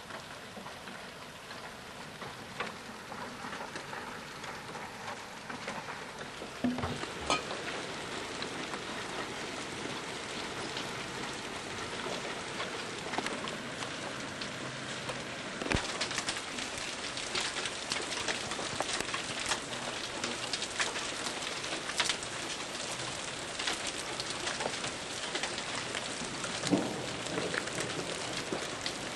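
Heavy rain with marble-size hailstones striking hard surfaces: a steady hiss peppered with sharp clicking impacts, which become louder and denser about halfway through.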